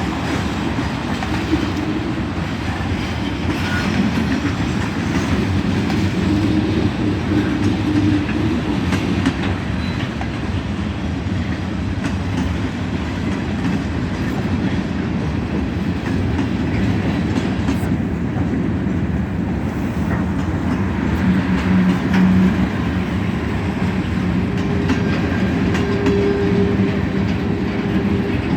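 Freight train cars rolling past on the mainline: a steady rumble of steel wheels on rail with continuous clickety-clack. Now and then a faint steady tone rings out from the wheels.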